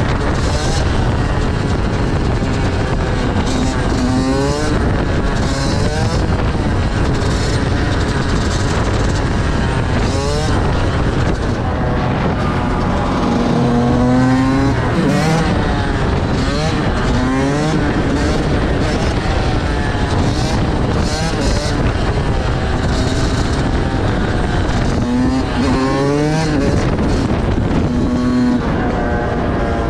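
Motorcycle engines on the move, their pitch climbing steeply under acceleration and dropping back at each gear change, several times over, with a constant low rush of wind.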